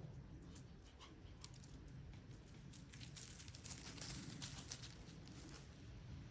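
Faint scattered ticks and rustling crackles over a low hum, thickest about three to five seconds in.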